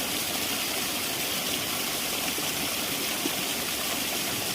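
Steady rushing of a waterfall and stream, an even hiss strongest in the high range, with one brief tap about three seconds in.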